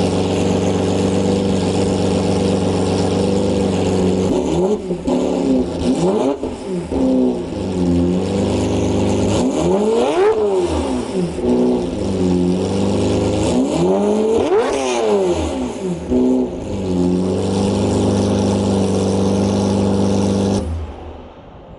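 Lamborghini Murcielago LP640's 6.5-litre V12 with a Fabspeed straight-pipe exhaust, just started and idling, then revved in a series of blips, three of them big rises and falls in pitch, before settling back to idle. The sound cuts off about a second before the end.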